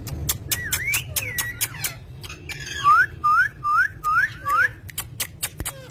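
Green ringneck parrot whistling: a few gliding whistles, then a run of five short, loud rising whistles in quick succession, among sharp clicks.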